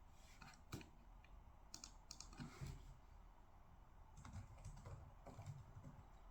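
Faint typing on a computer keyboard: three short runs of keystrokes, with pauses between them.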